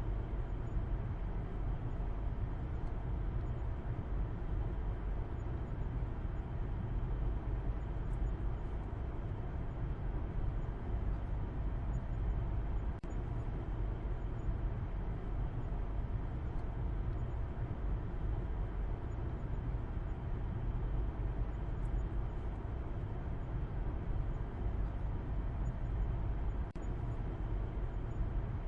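Steady low rumble of a car driving along, with road and engine noise that stays even throughout.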